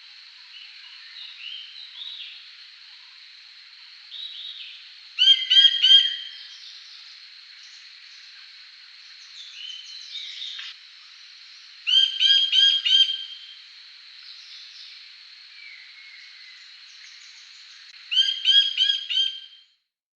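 A bird calling in three loud bursts of rapid, harsh repeated notes, about six seconds apart, over quieter scattered chirps of other birds and a thin steady high tone. The sound cuts off suddenly near the end.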